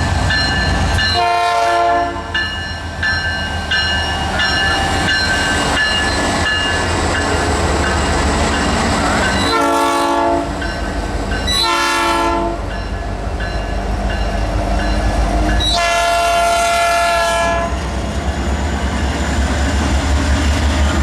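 Diesel freight locomotives rumbling as a train rolls slowly past, with the lead locomotive's air horn sounding four times: a blast about a second in, two short blasts near the middle, and a longer blast a few seconds later.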